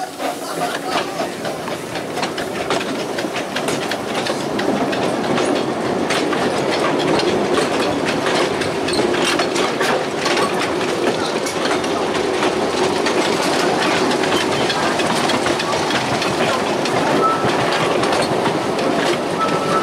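Narrow-gauge passenger train running on its track, heard from an open carriage: a steady rolling rumble with wheels clicking over the rail joints. A short high squeal comes twice near the end.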